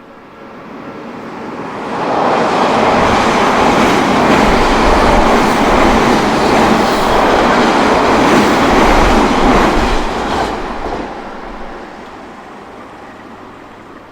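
Odakyu Odawara Line electric train passing over a level crossing: the rumble and rattle of its wheels on the rails swells over about two seconds, stays loud for about eight seconds, then fades away.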